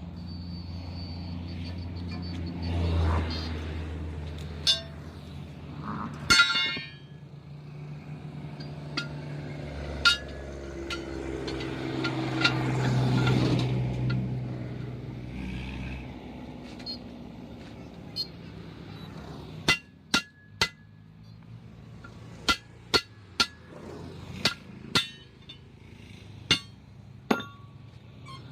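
Sharp metallic hammer strikes on steel during truck tyre work, a few scattered early and then about a dozen quick taps in an uneven series near the end, over a low rumble that swells and fades in the middle.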